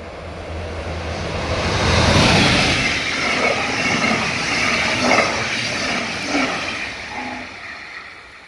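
Electric regional-express train of red double-deck coaches passing a level crossing at speed: the rushing wheel and rail noise swells, is loudest about two seconds in, and carries a few short knocks from the wheels. It fades away over the last second or so as the train clears the crossing.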